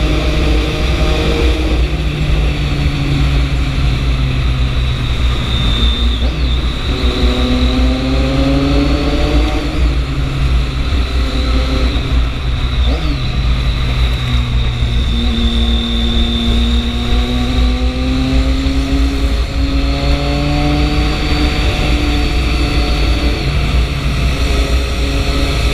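Triumph 675's inline three-cylinder engine under way, its pitch climbing for a few seconds and dropping several times as it goes up through the gears, over heavy wind rumble on the microphone.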